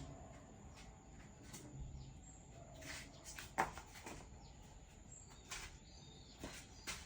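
Faint, scattered clicks and taps over low background noise, with one sharper click about three and a half seconds in.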